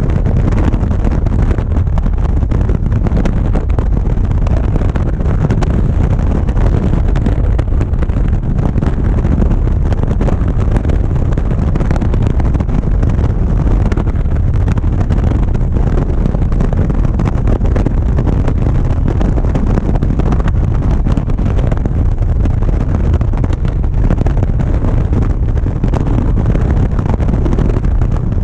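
Motorcycle riding at steady speed: the engine running evenly under heavy wind rush on the mic.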